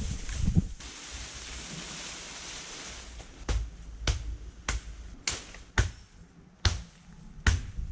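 Straight hazel branches being worked into tarp awning poles: a couple of seconds of hiss, then seven sharp cracks about one every half second to second.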